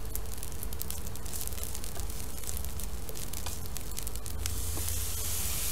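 Egg fried rice frying in a hot nonstick pan, crackling with many small pops. About four and a half seconds in, the crackle gives way to a steadier hiss as soy sauce is poured onto the hot rice.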